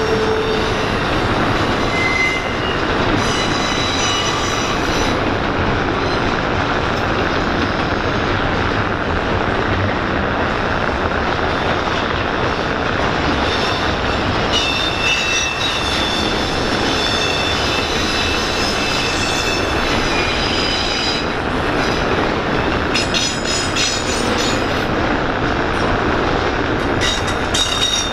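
Norfolk Southern intermodal freight train rolling steadily past, its cars running over the rails, with thin high-pitched wheel squeals that come and go, strongest in the middle stretch and again near the end.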